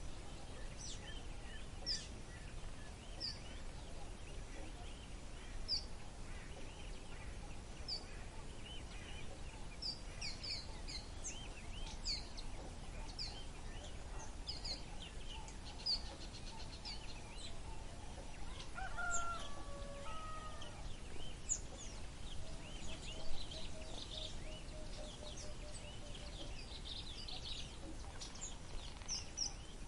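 Birds singing: many short, high chirps repeating every second or so, with a lower, longer call about two-thirds of the way through, over a steady low background hum.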